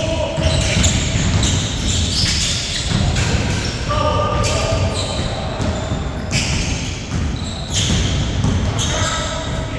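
Basketball game play on an indoor court: the ball bouncing and players' feet on the floor, with a few brief shouts, echoing in a large hall.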